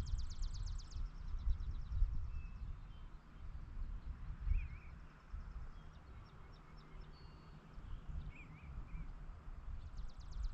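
Rural evening outdoor ambience: a constant uneven low rumble, a rapid high pulsing trill in the first second and again near the end, and a few short bird chirps in between.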